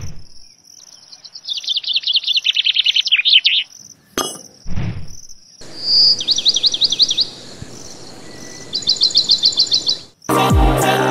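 Birds trilling in three quick high bursts over a steady, evenly pulsing chirp of crickets, with a short low thump at the start and another about five seconds in.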